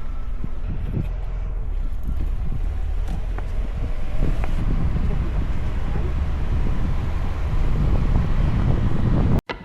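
A car's steady low rumble, with wind noise on the microphone.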